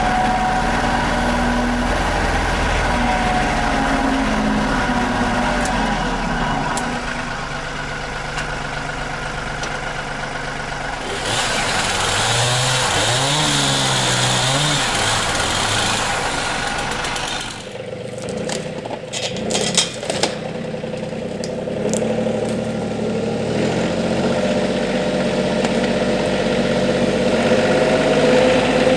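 RK 37 compact tractor's diesel engine running as the tractor drives, its pitch rising and falling. There is an abrupt change about 17 seconds in, with a few sharp knocks, and then steadier running.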